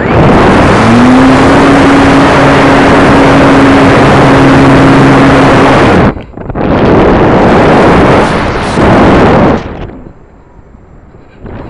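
RC combat plane in flight heard through its onboard FPV camera microphone: loud wind rush over the mic with the motor's steady hum, which rises in pitch about a second in and then holds. The sound breaks off about six seconds in, and a second rush of wind of about three seconds follows.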